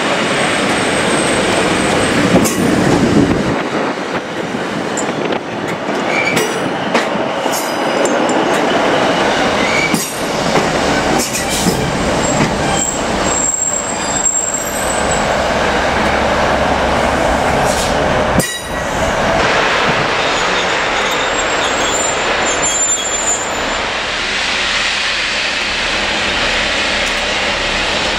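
A train running along the track with steady rumble and rail noise, its wheels giving several short high-pitched squeals along the way.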